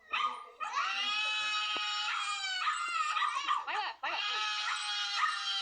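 A puppy howling: two long, high, drawn-out cries with a run of short rising-and-falling whines between them.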